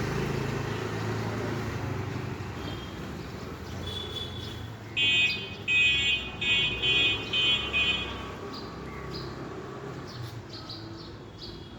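A bird calling: a run of about six loud, evenly repeated notes over about three seconds, with fainter high chirps before and after, over a steady low background rumble.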